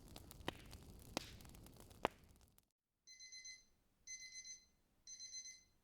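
Fireplace crackling with a few sharp pops, which cuts off suddenly about two and a half seconds in. Then a digital watch alarm beeps in short groups of rapid high beeps, about one group a second, three times. The alarm marks the end of a 25-minute Pomodoro study block.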